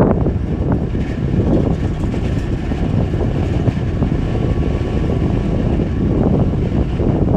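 Wind blowing and buffeting the microphone: a steady low rumbling rush that swells and eases in gusts.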